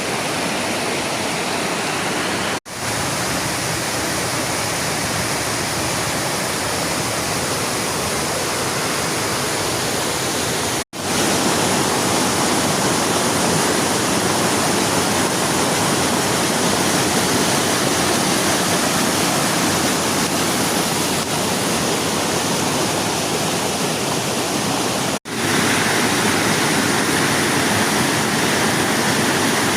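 Loud, steady rushing water, like a waterfall or fast stream, broken by three brief dropouts about 3, 11 and 25 seconds in.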